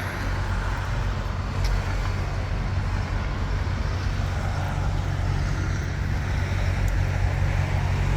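A steady low rumble from a running engine, with an even background noise over it.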